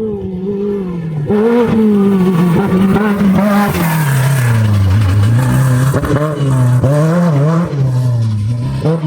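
Off-road race vehicle's engine running hard and revving, its pitch rising and falling again and again and sinking lower around the middle, with a rushing hiss about four seconds in.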